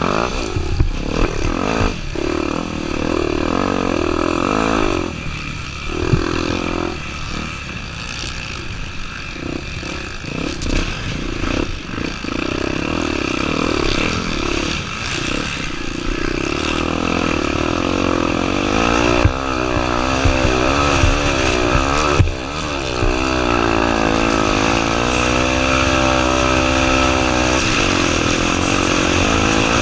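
Honda Tornado 250's single-cylinder four-stroke engine running hard, its pitch rising and falling as the throttle is worked, with a few sharp knocks along the way.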